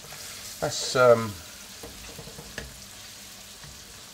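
Cubed chicken sizzling as it fries in hot oil in a karahi, being stirred with a wooden spoon, with a few light clicks later on.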